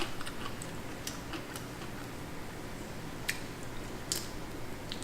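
Eating noises from a close microphone: quiet chewing of rice noodles and shrimp, with a few sharp clicks about one, three and four seconds in.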